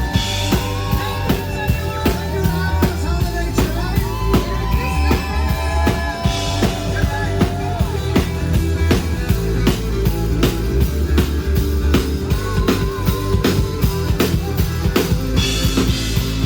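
Rock-style band music with a steady drum-kit beat and a heavy bass line.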